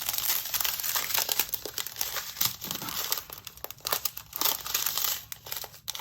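Small plastic baggies of diamond-painting drills crinkling as they are handled and sorted, with many small sharp clicks.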